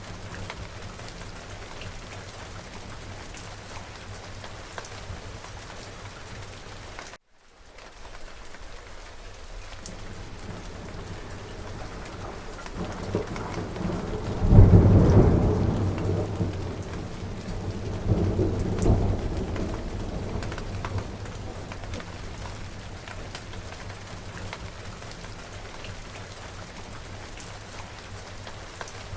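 Steady rain falling, with a rolling clap of thunder about halfway through that swells, peaks twice and fades out over several seconds. The rain cuts out for a moment about a quarter of the way in and fades back.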